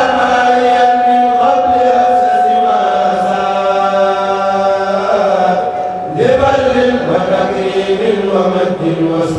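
A kourel chanting group singing a Mouride khassida a cappella in unison. The voices hold long, sliding notes, and a new phrase starts about six seconds in.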